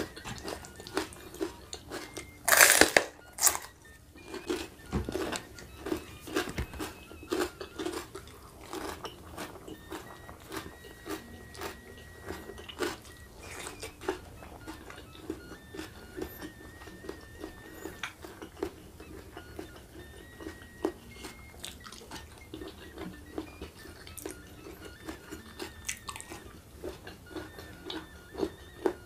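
Close-up eating sounds: a loud crunchy bite into raw winged beans about two and a half seconds in, then crunchy chewing with many small wet mouth clicks.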